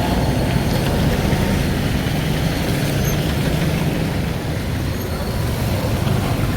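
Street traffic: vehicle engines running nearby, a steady mix of motor and road noise.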